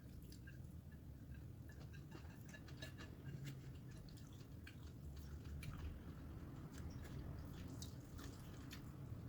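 Close-up chewing and eating: irregular wet mouth clicks and smacks as food is chewed, over a low steady hum.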